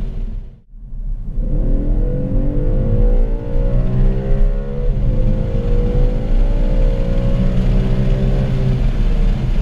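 Audi RS5 with its stock exhaust accelerating hard. The engine note dips out briefly about half a second in, then climbs in pitch, drops at a gear change about five seconds in, and climbs steadily again.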